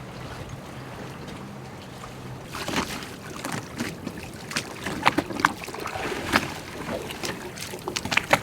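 A faint steady low hum, then from about two and a half seconds in, a run of irregular clinks and knocks, like hard objects being handled and set down.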